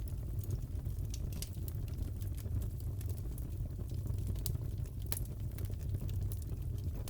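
Crackling wood fire in a fireplace: a steady low rumble of the flames with scattered, irregular sharp pops and snaps, one louder pop about five seconds in.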